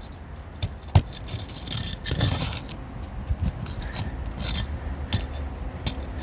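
Metal roofing tool clinking and scraping against asphalt shingles as the last nail is pried out and the sealed shingle is worked loose and torn. A sharp click about a second in, with rougher scraping stretches after it.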